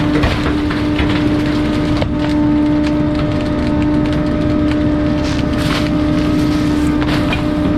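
Garbage truck compactor crushing bulky trash: irregular wood-like cracks and splintering snaps over the truck's steady hydraulic hum.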